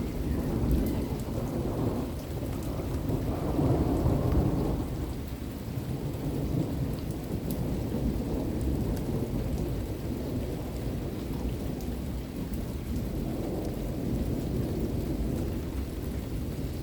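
Steady rain falling during a thunderstorm, with rolling thunder rumbling low under it. The thunder swells loudest a few seconds in and again near the end.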